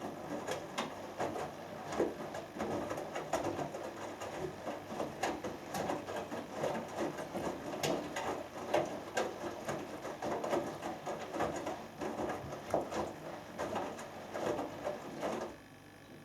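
Hoover Dynamic Next front-loading washing machine in its main wash: the drum turns, and wet laundry and water slosh and tumble with irregular soft knocks. It stops suddenly near the end as the drum pauses between turns.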